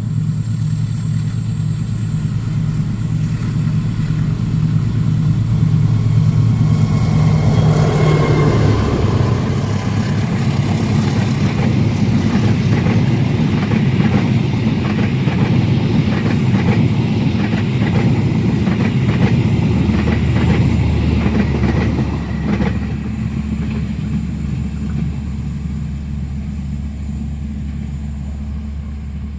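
Train passing at speed: the diesel locomotive's engine drone drops in pitch as it goes by, followed by a rhythmic clatter of the carriages' wheels over the rail joints that stops about 22 seconds in, leaving a fading rumble.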